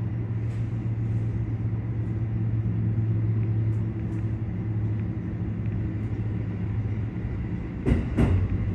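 Keikyu electric train heard from the cab: a steady low hum and rumble that swells in the middle and eases off. A few sharp knocks come near the end.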